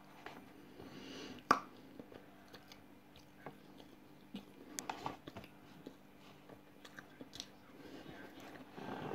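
Close mouth sounds of someone eating dry cornflour (cornstarch) off a straw: chewing with scattered small clicks and smacks, a sharp click about a second and a half in and a cluster around the middle.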